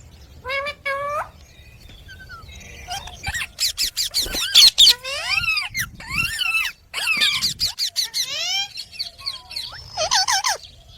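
Rose-ringed (Indian ringneck) parakeet calling and chattering: a run of short, high-pitched calls that sweep quickly up and down in pitch, broken by sharp clicks.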